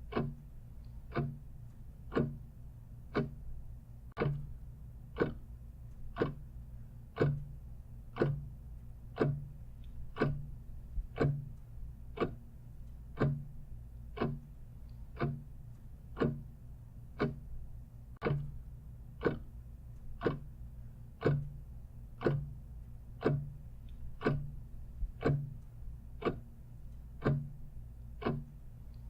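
Clock ticking steadily, with sharp, evenly spaced ticks over a faint low hum.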